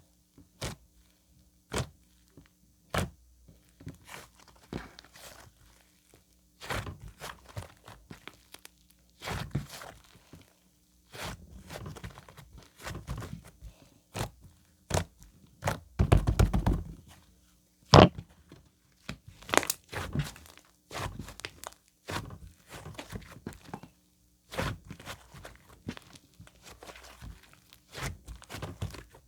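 White slime being squished, pressed and stretched by hand: irregular sharp pops and clicks with stretches of sticky squelching, the longest squelch about halfway through and a loud pop just after it.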